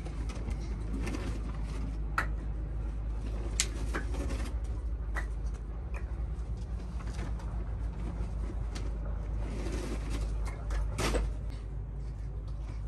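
Birds cooing, with scattered sharp clicks and knocks over a steady low rumble.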